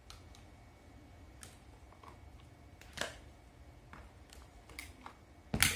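Scattered light clicks and knocks of something being handled, over a low steady hum; one firmer knock about halfway through and the loudest near the end.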